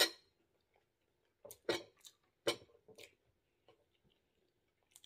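A person chewing food with mouth smacks and clicks: a few short separate sounds with pauses between them, most in the first three seconds.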